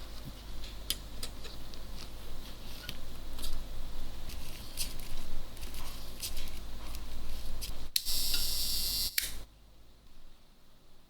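Small clicks and taps of camera parts being handled and worked on, Olympus ACE rangefinder camera, then a short hiss about eight seconds in that lasts just over a second.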